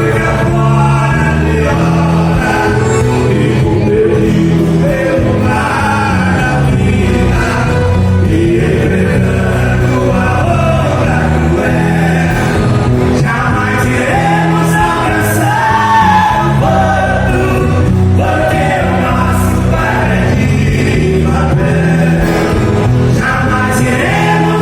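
A song playing: voices singing over a band with steady bass notes.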